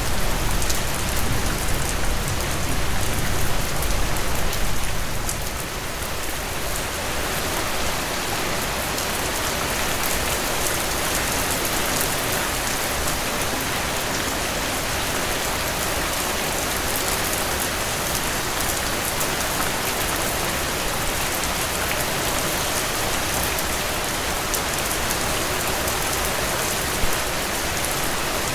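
Heavy rain falling steadily in a dense downpour. A low rumble underneath dies away about six seconds in, and there is one brief louder tick near the end.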